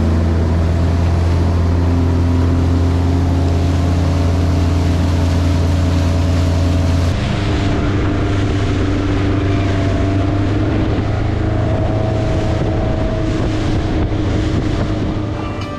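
Motorboat engine running steadily under way, its note shifting about seven seconds in, with wind rushing over the microphone.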